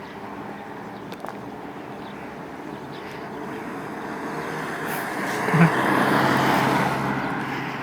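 A car driving past on the road, its engine and tyre noise swelling to a peak about six seconds in and then fading.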